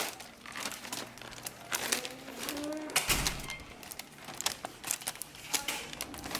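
Irregular crinkling and rustling with light taps and clicks, as of packaging being handled.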